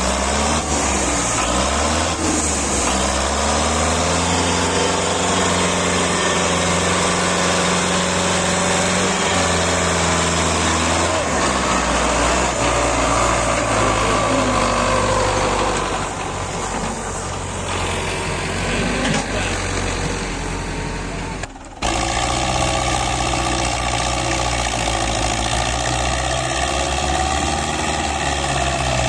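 An engine running steadily, with a brief dropout about three quarters of the way through.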